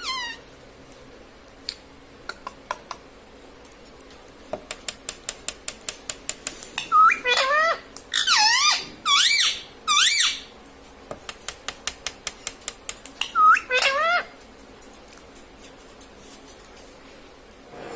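Parrot screeching: a cluster of loud harsh calls with a swooping pitch about seven seconds in and another short burst near fourteen seconds, between runs of rapid sharp clicks, about five a second.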